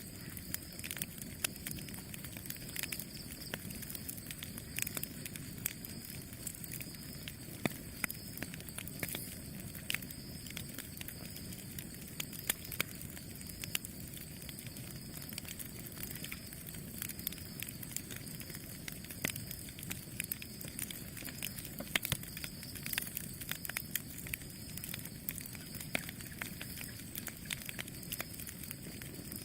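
Wood campfire burning steadily, crackling with frequent irregular sharp pops over a low, steady rush of flame.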